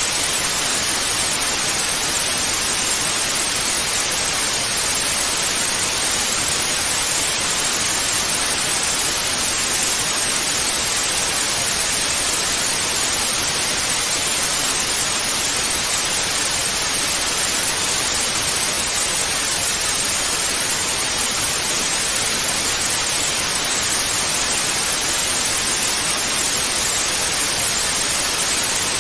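Television static (snow-screen white noise): a steady, even hiss that does not change, strongest in the upper range.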